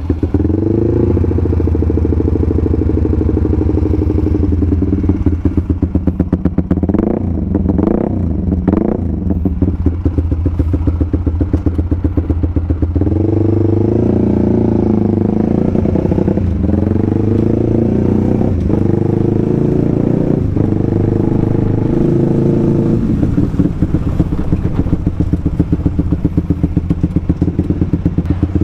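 Single-cylinder engine of a bored-up 180cc Honda CBR150R running through a 3Tech EvoX X1GPR racing exhaust, a one-mode silencer with a carbon end tip. The engine is blipped a few times, then pulls harder from about thirteen seconds in, with short dips in between. The exhaust note is aggressive but does not crack.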